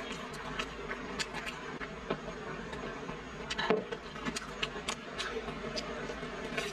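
Close-up chewing and crunching of crispy fried five-spice rolls: a steady run of small crackles from the crisp skin, with one louder crunch about halfway through.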